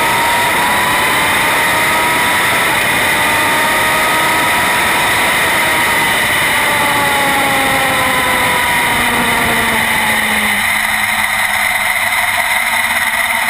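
Drag-racing super bike engine running, its pitch slowly rising and then falling until it drops away about ten seconds in, over a steady loud hiss.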